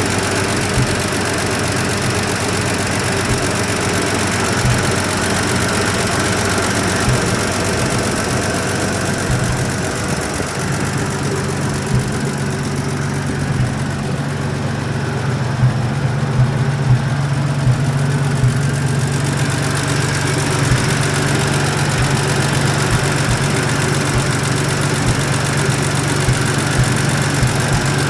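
A 1954 GMC fire truck's engine idling steadily, its low note growing stronger about ten seconds in.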